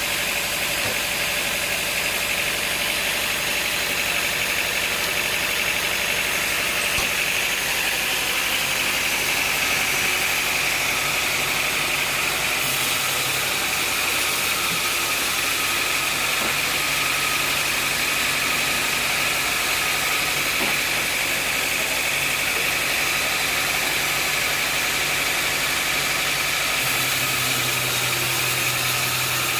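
Sawmill machinery running steadily, an engine-like drone with a constant high whine; a low hum grows louder about halfway through and again near the end.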